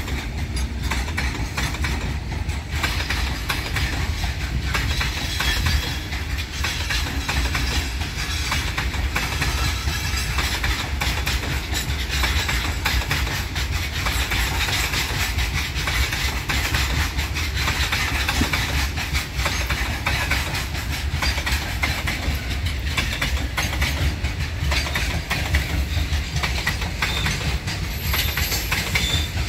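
A long freight train of covered wagons rolling past: a steady rumble of wheels on rail with continuous clicking and clatter.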